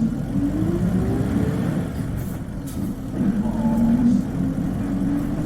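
Isuzu Cubic KC-LV380N bus engine accelerating, heard from inside the bus: a rising whine climbs through the first second and a half and again about three seconds in. The high-pitched, distinctive note of this particular bus's engine as it picks up speed.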